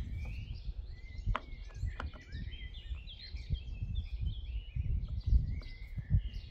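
Small birds chirping continuously, over an uneven low rumbling noise, with a couple of light clicks about a second in.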